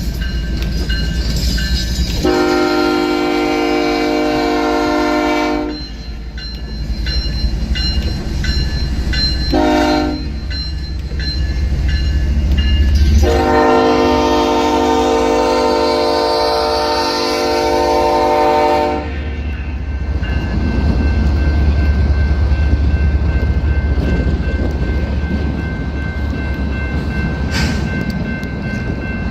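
BNSF diesel freight locomotive sounding its horn for a grade crossing: a long blast, a short one, then a long one, over the low rumble of the engines and rolling train. After the last blast the heavy rumble of the passing freight continues.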